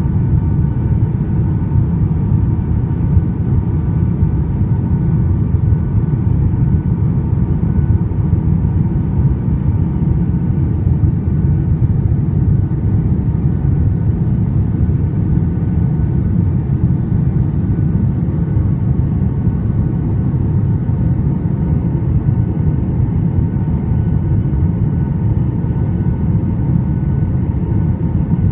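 Steady cabin rumble inside a Boeing 737 MAX 8 airliner: a deep, even roar of engine and airflow noise with a faint steady hum above it, unchanging throughout.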